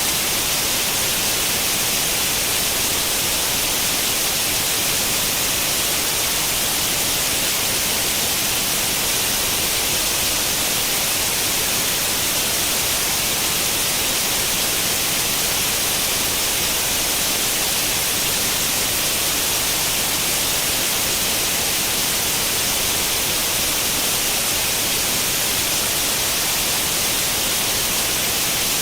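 Steady hiss of white noise, the static of an old tube television tuned to no channel. It is even and unchanging, and brightest in the treble.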